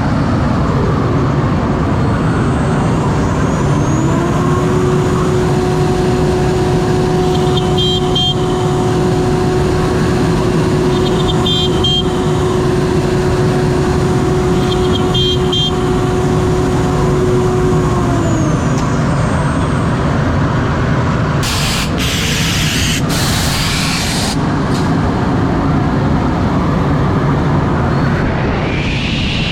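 CNC router milling beech boards: a loud, steady machine noise. A held tone rises in about four seconds in and drops away again after about fifteen seconds.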